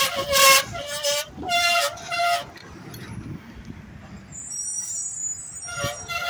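Vehicle horn honking in several short blasts of slightly varying pitch, then once more near the end, with a faint high squeal in between.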